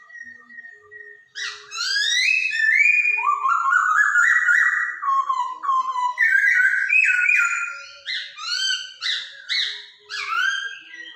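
Poksay Hongkong, a laughingthrush, singing loud, rich whistled phrases of sliding and down-slurred notes. The song starts about a second in, after faint scattered chirps.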